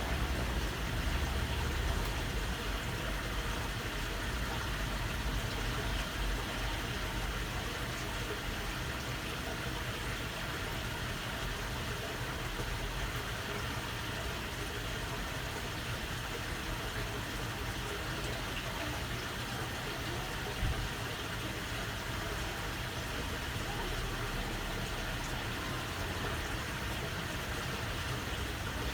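Steady murmur of water flowing along a waterway, over a low rumble.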